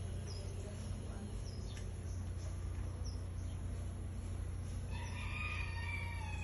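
A rooster crowing once, starting about five seconds in and lasting about a second and a half, over a steady low rumble.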